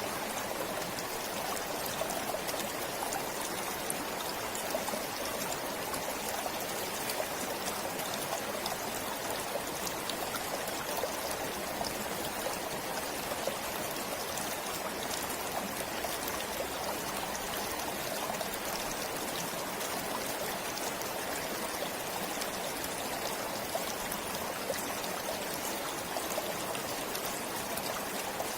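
Forest stream flowing and trickling steadily, a constant even rush of water.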